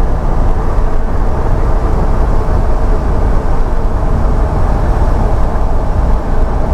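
Pickup truck with a camper being driven on the highway: a steady, loud low rumble of engine and road noise.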